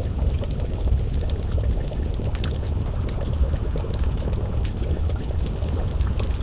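Wood fire crackling with scattered sharp pops over a steady low rumble, mixed with a pot of stew bubbling.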